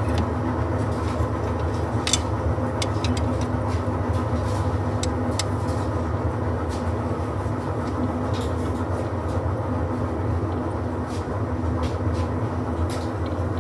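A steady low mechanical drone, with scattered sharp light clicks and taps from hand tools on the car's metal parts.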